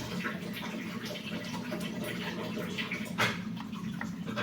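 Water running from a kitchen tap as a child washes her hands at the sink, with a few small clicks.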